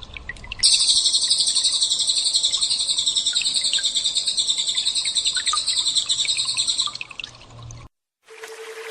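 Recorded small songbird call of the 'tembakan' type used as masteran for magpie-robins: a very rapid, high-pitched ringing trill held for about six seconds, with a few short chirps before and after. Near the end, after a brief silence, a steady tone with fast high-pitched pulsing begins.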